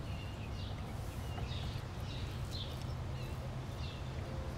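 Outdoor ambience: a steady low rumble with faint, short bird chirps repeating about every half second.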